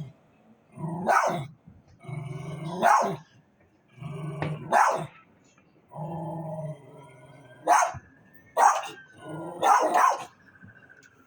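A dog growling and barking in turns: low growls lasting about a second, each broken off by a sharp bark, about six barks in all.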